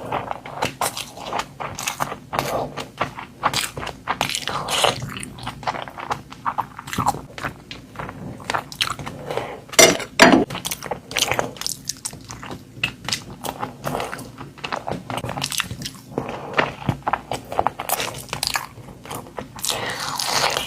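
Close-miked chewing and biting of chicken curry and biryani: a dense run of short crunching clicks, with one louder burst about ten seconds in.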